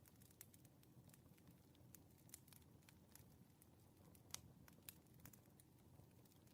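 Faint crackling of a wood fire: irregular pops and snaps over a low, steady rumble.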